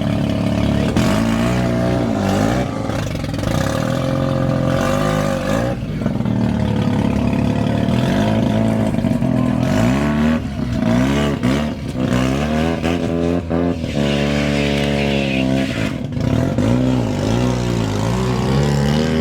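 Car engine revving over and over, its pitch rising and falling in repeated swells.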